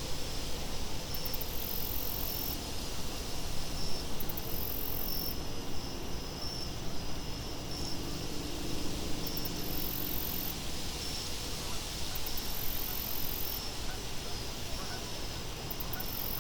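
Insects chirping over a steady wind bed. A very high trill comes every few seconds, each opening with a few quick clicks, over a steadier, evenly pulsing chirp.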